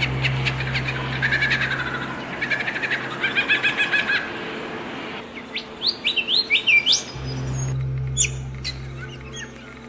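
Several songbirds chirping and trilling, with fast rattling trills in the first few seconds and a run of quick rising whistled notes near the middle. A steady low hum runs beneath them and drops out abruptly near the end.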